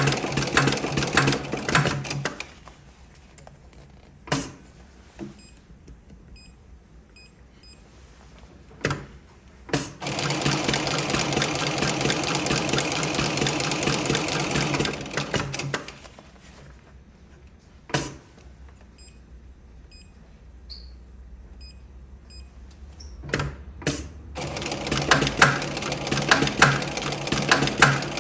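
Electronic pattern post-bed sewing machine stitching single-needle patterns in three runs of rapid needle strokes: one at the start, one in the middle and one toward the end. The pauses between runs are quieter, with a few sharp clicks.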